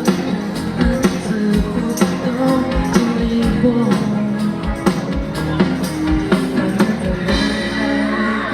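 Live band playing an instrumental passage of a pop-rock song, with a steady drum beat under electric guitar and sustained chords.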